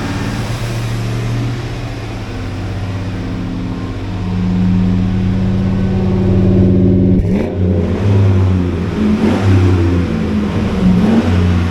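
An old grain truck's engine being cranked over by a weak starter on a run-down battery. It spins evenly at first, then about seven seconds in it turns in slow, uneven pulses and does not start.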